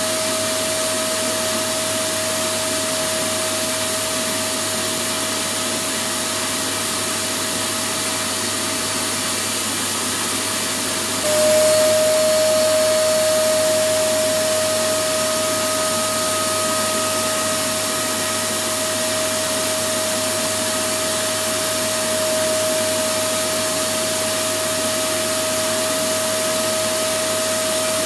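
Electric vacuum cleaner motor running continuously: a steady rushing noise with a clear whine over it. About eleven seconds in, the whine steps slightly lower in pitch and grows louder, then holds steady.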